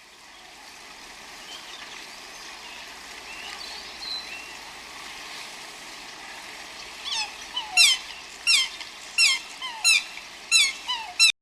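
Outdoor background with faint distant chirps, then a run of about seven short, high, falling calls from an animal, about one and a half a second, cut off abruptly near the end.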